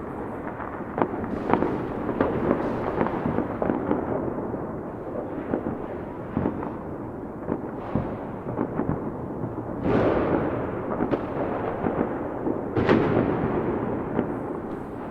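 Fireworks going off: a steady run of sharp cracks and pops over a continuous rumble, with two louder bursts about ten and thirteen seconds in, each trailing off slowly.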